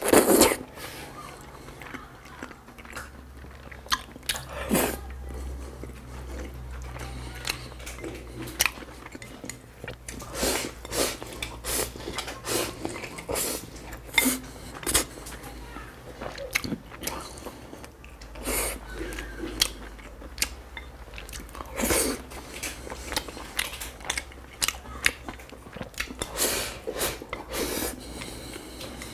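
Close-miked eating of glazed fatty meat and purple rice: wet chewing and biting with many short, sharp mouth smacks and clicks.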